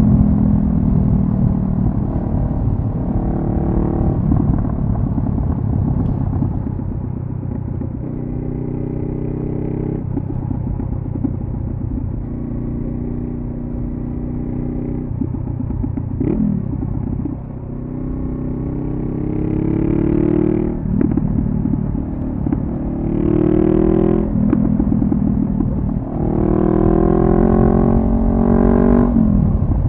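2014 Honda CB500F parallel-twin engine through a Delkevic carbon-fibre slip-on exhaust, ridden on the road. The engine note climbs in pitch under acceleration and drops back at each gear change, several times over.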